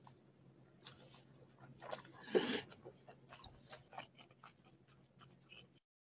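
Close-up chewing and biting of a dumpling, with soft wet mouth clicks and one louder burst about two and a half seconds in. The sound cuts off abruptly near the end.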